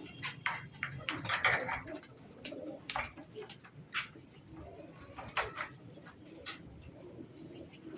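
Domestic pigeons cooing, a low murmur throughout, with a scattering of short sharp clicks and taps.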